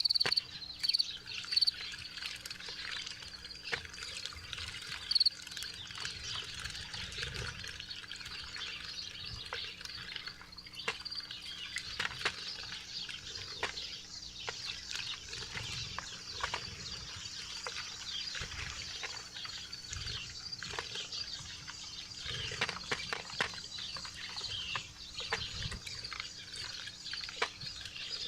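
Small wild birds chirping at a backyard feeder, with many short clicks and taps throughout and a faint steady hum underneath. The chirps are most frequent in the first few seconds.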